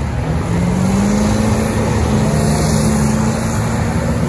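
Vehicle engine revving: its note climbs over the first second or so, then holds steady at high revs.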